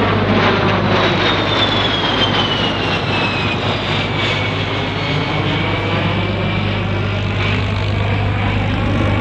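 A USAF A-10 Thunderbolt II's twin General Electric turbofans passing by, a loud steady jet rush with a high whine that falls in pitch from about one to four seconds in as the jet goes past. A steady low hum sits underneath.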